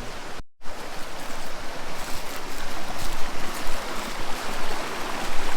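Swift mountain stream rushing, a steady loud rush of water. The sound drops out completely for a moment about half a second in.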